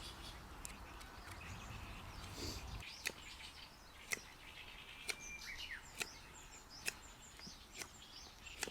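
Sharp taps or knocks, about one a second, with small birds chirping in the background.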